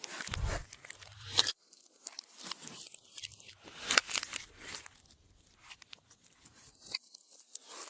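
Glossy slime being worked by hand, giving irregular sticky clicks and crackling pops.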